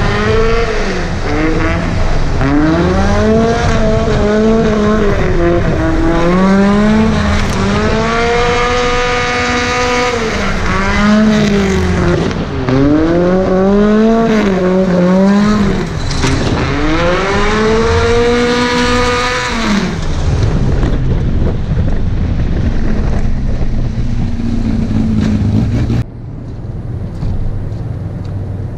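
Volvo 740 drift car's engine revving hard, its pitch climbing and dropping again and again for about twenty seconds as it is driven on a gravel road. After that it settles to a rougher, lower running sound, and the level drops suddenly near the end.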